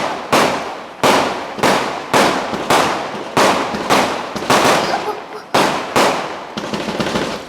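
Fireworks going off in rapid succession, about two sharp bangs a second, each followed by a fading rumble.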